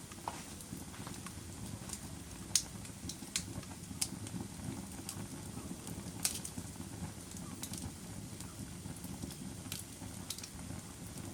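Wood fire burning in a fireplace: a steady low rush of flames with irregular sharp crackles and pops, about a dozen, the loudest near the start and about six seconds in.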